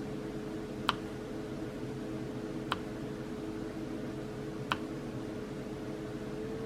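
Light single ticks about every two seconds over a steady hum: a diamond-painting drill pen setting resin drills onto the adhesive canvas.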